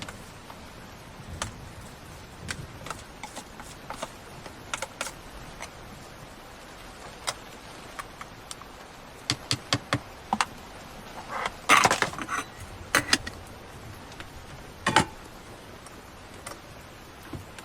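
Scattered sharp clicks and clattering knocks, loudest in a cluster about two-thirds of the way through, over a steady hiss of heavy rain.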